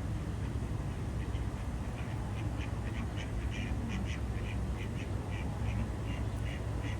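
A duck quacking in a quick run of short calls, about three a second, starting about a second in, over a steady low rumble.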